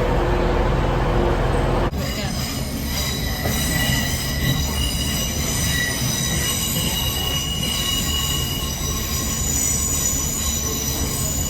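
A train's wheels squealing on the rails: several high, steady tones held over a low rumble, starting abruptly about two seconds in after a low hum.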